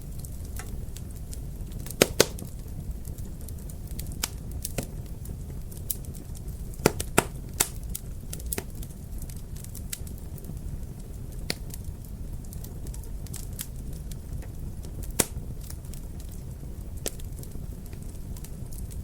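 Wood fire crackling in a fireplace: a steady low rumble of the flames with irregular sharp pops and snaps, a few louder pops in quick pairs.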